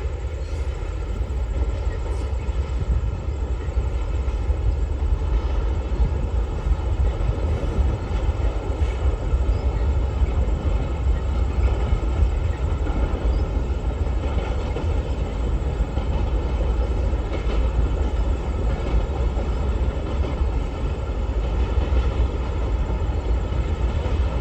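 Long freight train of cargo wagons rolling past on the rails: a steady, unbroken rumble of wheels and cars with no change in level.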